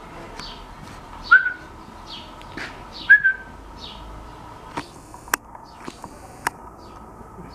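A bird chirping over and over in quick notes that fall in pitch, about twice a second. Twice it is broken by a short, loud, whistle-like squeak. From about five seconds in, several sharp ticks follow.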